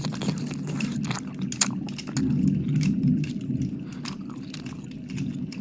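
Wet mouth sounds close on the microphone: rapid lip and tongue smacks and clicks, as in licking the mic. A louder low rumble swells about two seconds in and lasts over a second.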